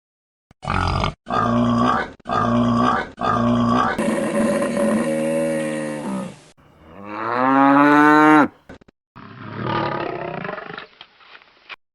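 A run of separate farm-animal calls cut one after another, each stopping abruptly. There are four short, alike calls, then a long call falling in pitch, a call rising in pitch, and a rougher call near the end.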